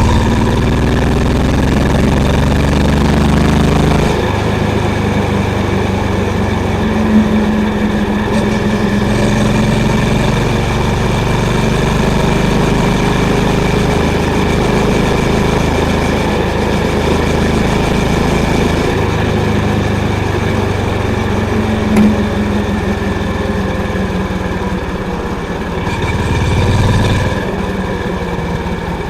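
Honda CB350's single-cylinder engine and exhaust running under way, a steady thump whose pitch shifts several times through the ride.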